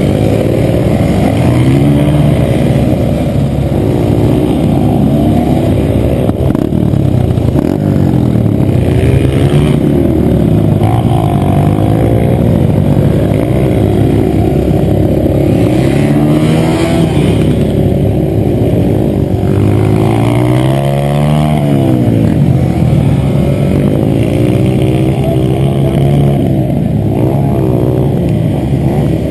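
Dirt bike engine running and revving, its pitch rising and falling again and again as the throttle is opened and eased off.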